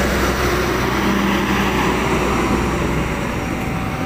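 Passenger train carriages passing at speed close by, a steady loud rumble of wheels on the rails.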